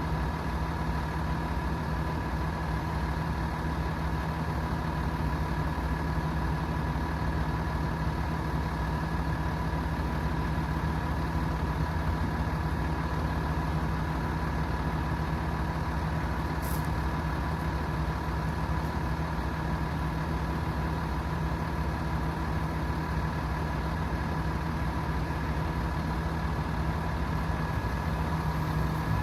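Hino 338 truck's 7.6-liter turbo diesel engine idling steadily, with an even hum and a faint steady whine.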